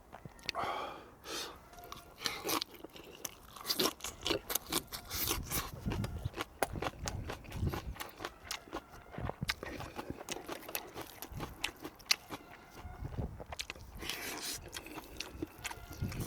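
A person eating close to the microphone: chewing and crunching, with many short clicks and scrapes throughout.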